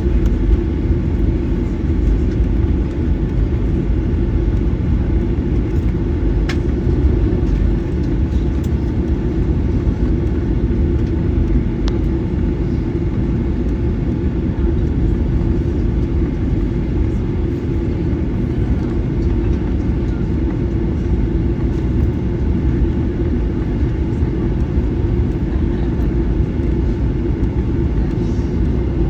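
Steady low cabin rumble inside a Boeing 737-900ER on the ground, its CFM56-7B engines running at low power, with a couple of faint clicks.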